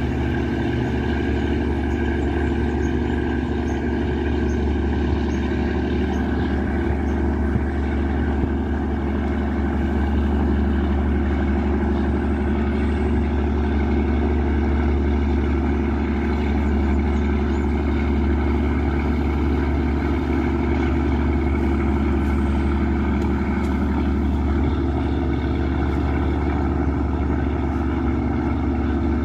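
Riverboat's Yanmar 829 hp marine diesel engine running steadily under way, a deep, even drone that holds constant throughout.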